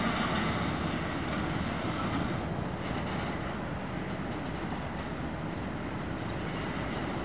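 Freight train of covered sliding-wall wagons running away on the rails, its wheels and cars making a steady noise that slowly fades as the last wagons recede.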